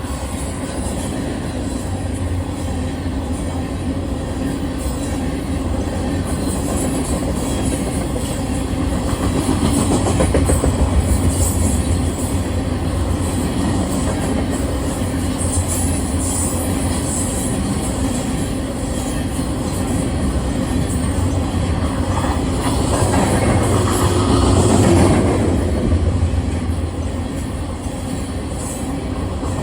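Union Pacific freight train rolling past, a steady rumble of wheels on the rails that swells a little near the end.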